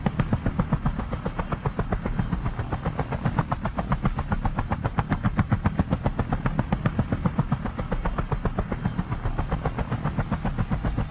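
Helicopter rotor blades beating in a fast, even rhythm.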